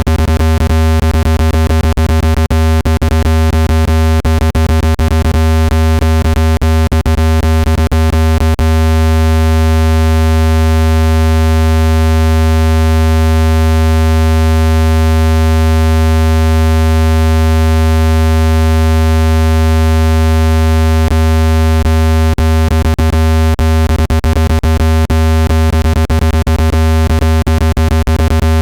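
Loud, steady low-pitched electronic tone with a buzzy stack of overtones: a speaker dust-cleaning tone, played at maximum volume so its vibrations shake dust out of a phone speaker. Rapid clicking crackles over the tone for the first several seconds, stops, and comes back about three-quarters of the way through.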